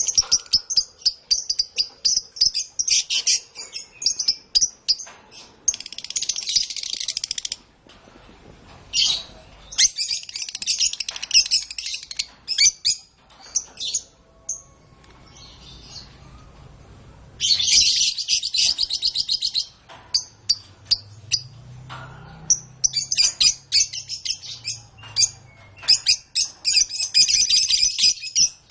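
Domestic canary singing: long, high-pitched phrases of very fast trills lasting a few seconds each, broken by short pauses filled with scattered chirps.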